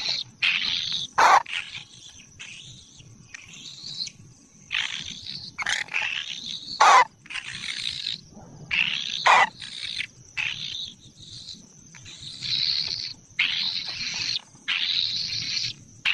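Kingfisher nestlings calling over and over with harsh, rasping begging calls, many of them sweeping downward, broken by three sharp, louder cracks.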